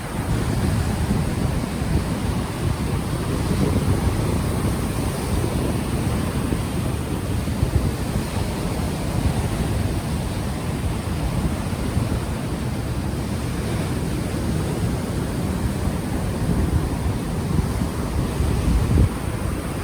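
Ocean surf washing onto the shore, heard as a steady noise heavy in the low end, with wind buffeting the unshielded microphone.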